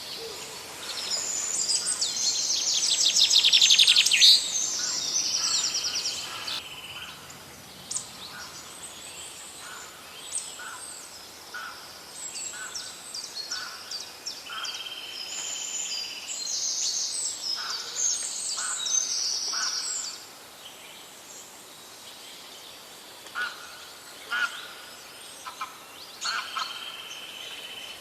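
Several songbirds singing and calling in overlapping phrases of chirps and trills, with one loud fast trill about two to four seconds in.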